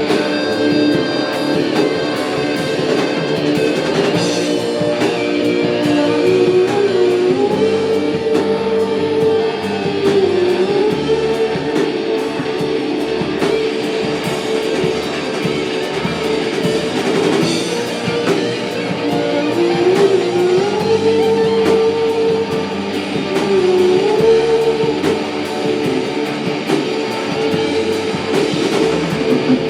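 Live rock band playing an instrumental passage: guitar with long held notes that bend in pitch several times, over a drum kit.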